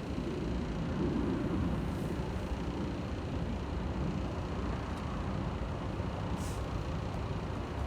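Steady rushing outdoor noise of road traffic mixed with a waterfall, with a short high hiss about six and a half seconds in.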